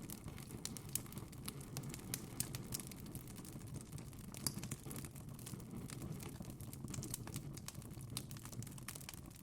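Wood fire burning in a fireplace, crackling with many small irregular snaps and a few louder pops over a low steady rumble of the flames.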